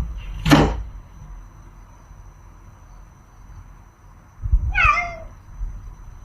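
A cat meows once, a short call with a wavering, falling pitch, about five seconds in. About half a second in there is a brief, sharp, hissy noise.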